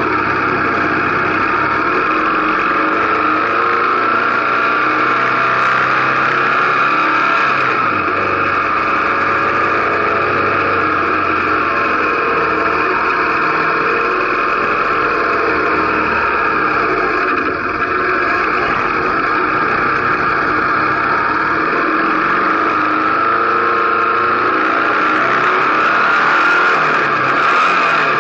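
Motorcycle engine running steadily under way, with wind noise on the microphone, as it pulls off and picks up speed on a climbing mountain road.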